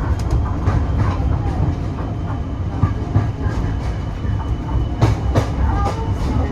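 Heritage railway carriage running along the line, heard from on board: a steady low rumble with scattered clicks and knocks from the wheels and running gear.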